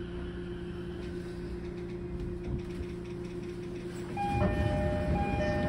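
Running noise inside an E231-0 series electric train's motor car at cruising speed, a steady rumble with a constant hum. About four seconds in the rumble grows louder and a ringing of two alternating tones starts.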